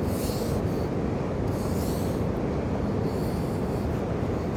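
Steady roar of waterfall water, with a few short scratchy hisses in the first few seconds.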